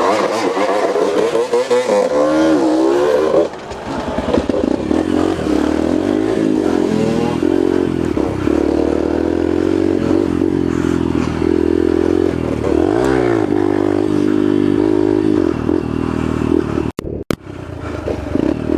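Yamaha TT-R125 dirt bike's single-cylinder four-stroke engine riding away under throttle. The revs rise for the first few seconds, drop sharply as the rider shifts, then hold steady, with another brief rise in revs later on.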